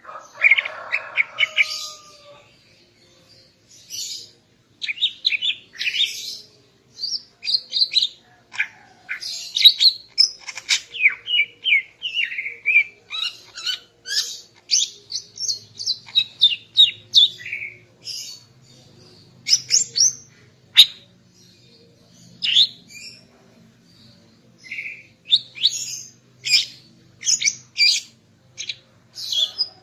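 Female greater green leafbird (cucak ijo) calling: a rapid, continuous run of sharp chirps and short whistles, with brief pauses between phrases.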